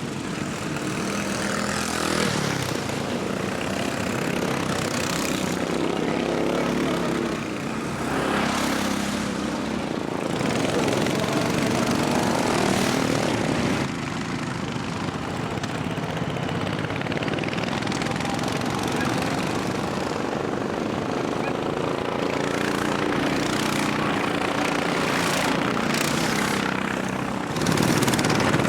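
Racing lawnmowers' engines running flat out, with several machines passing one after another, each swelling and fading as it goes by.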